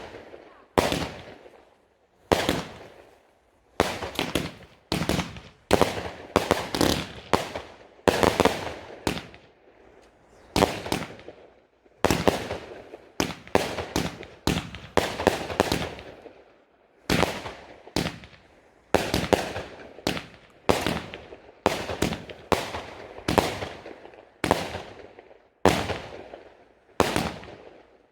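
Fireworks exploding in a long, irregular series of sharp bangs, about one or two a second, each fading away in an echo.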